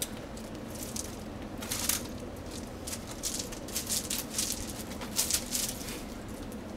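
Casablanca Spirit of Saturn ceiling fan running steadily at a high speed, a low motor hum under the noise of its airflow. Irregular crackly rustling comes and goes over it from about a second and a half in until near the end.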